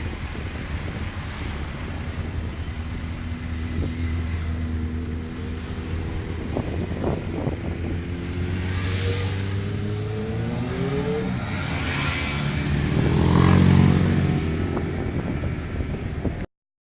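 Motorcycle engines running, with one revving up in a rising pitch about halfway through and the loudest pass near the end, before the sound cuts off abruptly.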